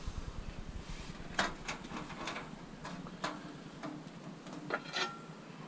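Pieces of scrap metal knocking and clinking as they are handled and sorted, with half a dozen sharp knocks at irregular intervals.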